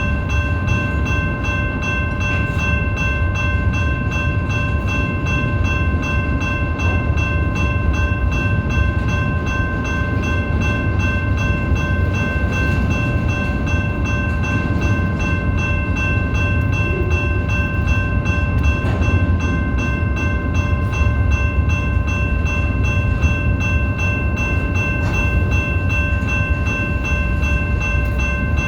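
BNSF freight train rolling past: a steady low rumble with a sustained high ringing tone over it.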